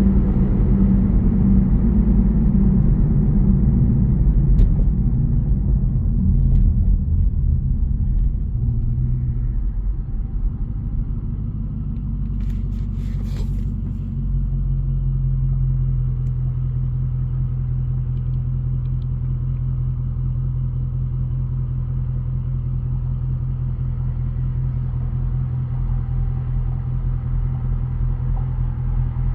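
Jeep Grand Cherokee's 5.7-litre Hemi V8 exhaust rumbling while driving. It is heavier for the first ten seconds or so, then settles into a steady, lower drone. There is a short hiss near the middle.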